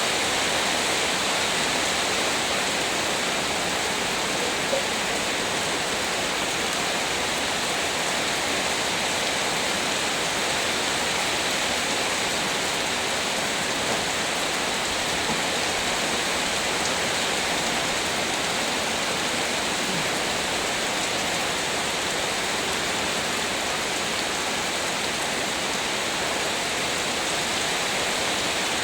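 Heavy rain pouring down in a steady, dense hiss, with a faint drop tick now and then.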